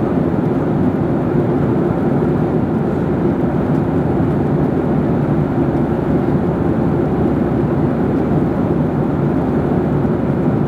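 Jet airliner cabin noise in flight: engine and airflow noise blended into an even, unchanging low rumble.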